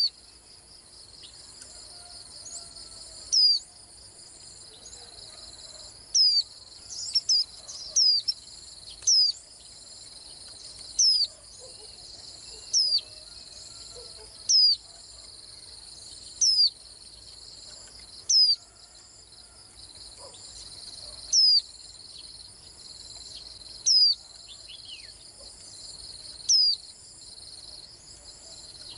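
White-eye giving short, sharp, high notes that slide downward, repeated every two to three seconds, with a quick cluster of them about seven seconds in. Steady high insect trilling runs underneath.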